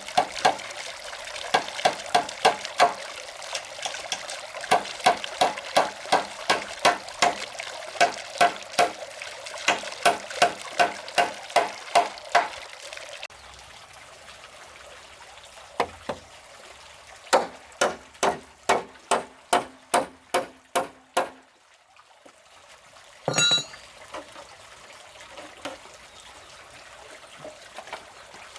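Repeated strikes of a hand tool, about two to three a second. A long run is played over a steady rushing like running or pouring water, which stops about halfway. After a pause comes a second, shorter run of strikes.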